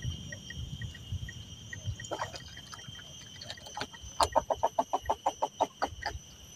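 Insects droning steadily in a high pitch. About four seconds in, a bird calls a rapid run of about a dozen short notes, roughly seven a second, over a low rumble.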